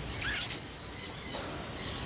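A bird's short, shrill squeak about a quarter second in, the loudest sound, followed by fainter high chirps near the end.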